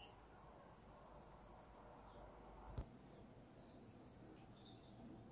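Near silence with faint birdsong: quick runs of short, high chirping notes near the start and again in the second half, and one soft click a little under three seconds in.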